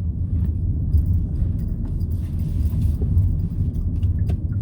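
Steady low rumble of a car driving, heard from inside the cabin, with a few faint ticks and rattles.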